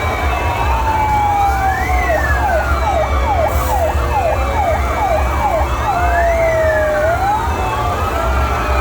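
Several fire-engine sirens sounding at once, wailing up and down over one another. About two seconds in, one switches for a few seconds to a fast yelp of about two sweeps a second before returning to a slow wail. A steady low rumble runs underneath.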